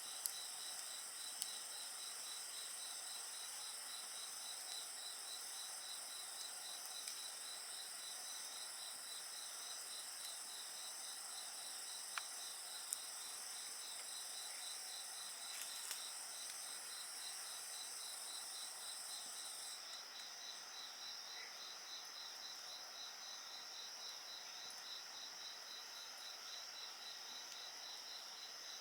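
Several insects singing together in steady, high-pitched trills, one of them a rapid pulsing chirp; the highest trill stops about two-thirds of the way through. A few sharp pops from a crackling wood fire sound over the trills.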